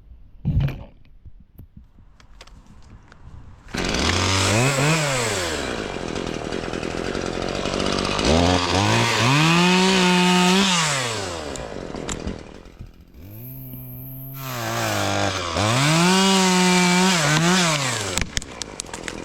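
Chainsaw revving up and down in three long bursts, its engine pitch climbing, holding and dropping back each time, after a sharp knock just after the start.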